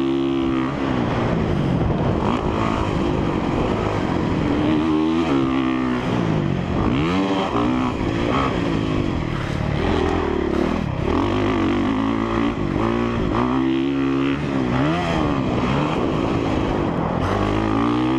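2017 Honda CRF450R's single-cylinder four-stroke engine revving up and falling back again and again as the throttle is opened and closed.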